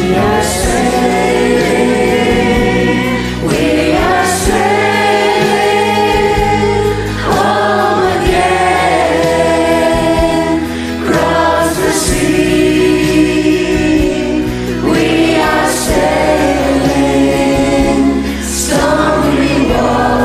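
Music: a song with a choir of massed voices singing over a steady accompaniment, the voices pausing and coming back in every few seconds.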